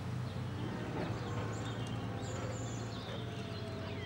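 Tractor engine running steadily as it pulls a loaded trailer away, a low even drone, with birds chirping now and then.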